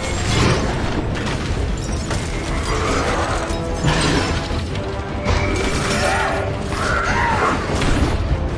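Action-film soundtrack: dramatic music over mechanical clanking, crashes and shattering impacts.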